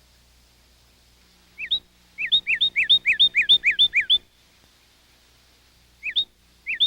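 A songbird singing runs of loud, quickly repeated whistled notes, each a short slur that rises and then drops, about four a second; one run of about eight notes fills the middle and another starts near the end.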